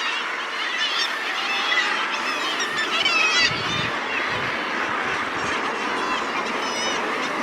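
A seabird colony's chorus: many birds calling over one another at once, in a continuous din of harsh, rising and falling cries, loudest about three seconds in.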